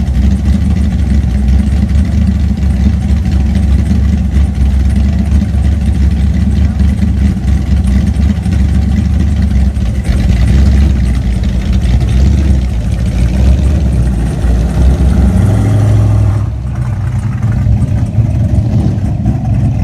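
Loud, deep rumble of car engines idling and running slowly, steady throughout, dropping briefly in level about sixteen seconds in.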